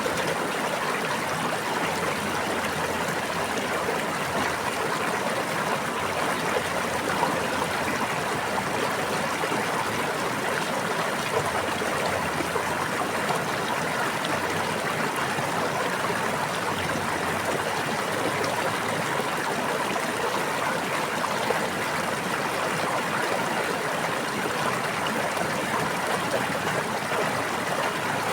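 Running water flowing steadily, like a babbling brook, an even rushing with no change in level.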